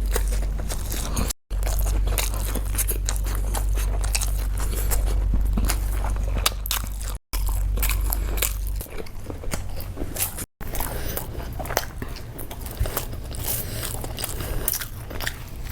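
Close-miked eating: a person biting and chewing crunchy food, with many irregular crunches and crackles over a low hum, cut off by three brief silences.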